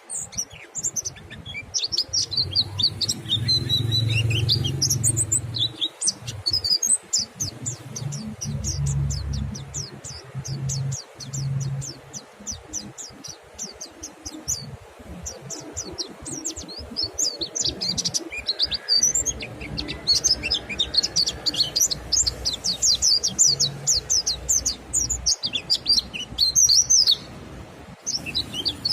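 Mountain white-eyes chirping and twittering in fast, high trills, more than one bird calling at once, busiest in the second half. A low rumble sits under the song at times.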